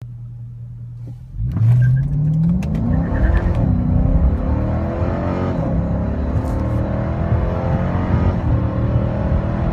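Car engine and exhaust idling, then accelerating hard about a second and a half in. The note climbs in pitch in stages as the car pulls through the gears.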